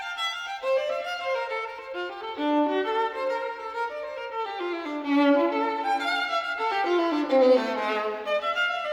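Violin music: a melody of held notes stepping up and down, with a falling run of notes a little before the end.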